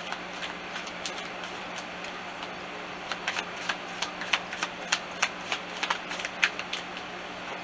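Tarot cards being shuffled and handled: a run of sharp, irregular clicks and taps, sparse at first and coming several a second from about three seconds in, over a low steady hum.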